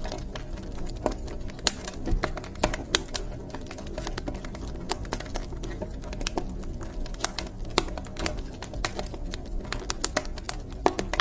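Wood fire crackling in a fireplace: irregular sharp pops and snaps, a few much louder than the rest, over a low steady rumble of burning.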